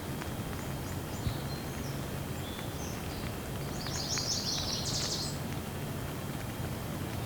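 Steady rain falling, with occasional faint drip ticks, as small birds chirp high above it, a quick cluster of chirps about four to five seconds in.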